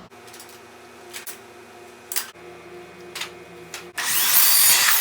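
A saw cutting track material: a few short rasping strokes, then a loud, sustained cut starting about four seconds in.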